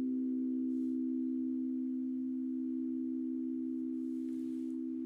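Singing bowl ringing with a sustained low tone and a few steady overtones, slowly fading.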